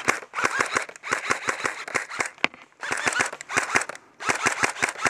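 Airsoft guns firing full-auto in four rapid bursts of about a second each, with short pauses between. The shots are sharp clacks at roughly eight to ten a second: covering fire.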